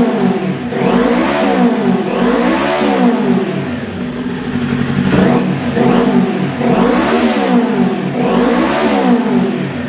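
Kawasaki Ninja 400 parallel-twin engine, breathing through an SC Project slip-on exhaust with its dB killer fitted, revved hard on the stand about five times, each rev climbing to around 9,000 RPM and falling back.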